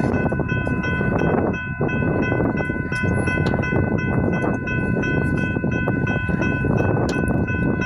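Railroad grade-crossing bell ringing in quick, even strokes, about three a second, over a steady low rumble from the train.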